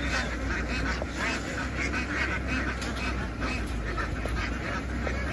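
A large flock of domestic ducks quacking all at once, many calls overlapping into a dense, continuous din, over a steady low hum.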